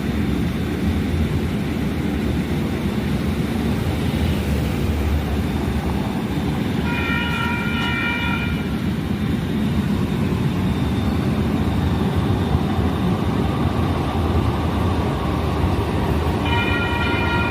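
Light rail train running with a steady low rumble. A multi-tone horn sounds for under two seconds about seven seconds in, then starts again near the end.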